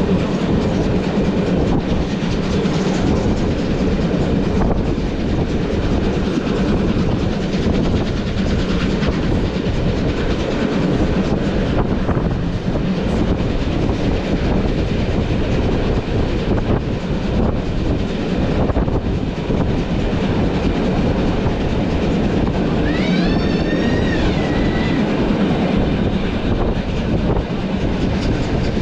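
Heritage train with steam locomotive 50 2988 and Umbauwagen coaches running steadily over the rails: a continuous rumble with rail clatter. Near the end a brief high tone rises and then holds for about two seconds.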